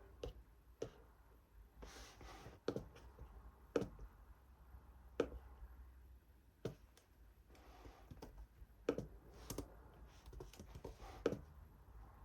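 Irregular light clicks and taps at a desk, several seconds apart at most, from someone studying. Three brief soft scratchy rustles fall between them, like writing or paper being handled.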